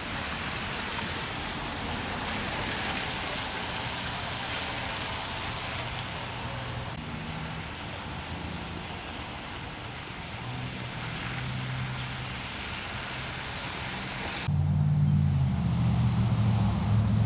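Steady hiss of rain and wind-driven road noise around a vehicle in a severe thunderstorm. About three-quarters of the way through, it cuts suddenly to a louder, lower steady drone.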